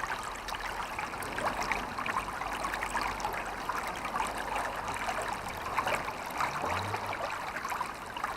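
Steady rushing background noise with faint scattered ticks and no speech.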